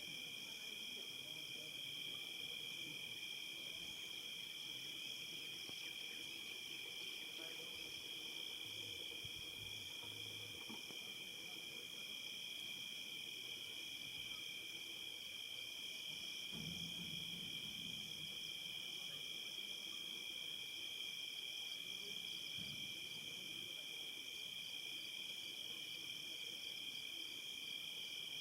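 Steady evening chorus of crickets trilling, a continuous high-pitched ringing in several pitches, with a few faint low calls a little past halfway.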